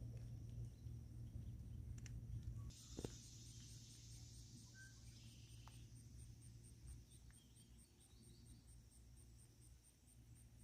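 Faint outdoor ambience of insects chirping in an even, rapid pulse that sets in about a third of the way through. Under it, a low rumble dies away at about the same time.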